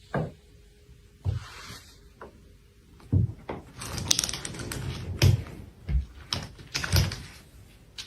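A run of irregular knocks and thumps, sparse at first and then coming thick and fast for several seconds, with the loudest ones a few seconds in and near the end.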